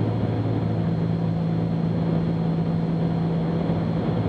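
Cessna 310Q's twin piston engines and propellers droning steadily in the cockpit on final approach with the gear down. The drone is even, with two strong low tones.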